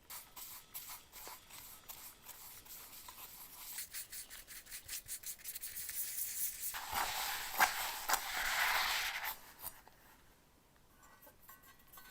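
Rubbing by hand in quick, repeated strokes. The strokes grow louder about two-thirds of the way in and stop abruptly about three-quarters through.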